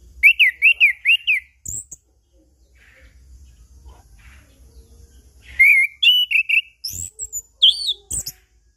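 Chestnut-capped thrush singing: a quick run of four whistled notes, a single high note, a pause, then a longer, varied phrase of whistles and high sweeping notes.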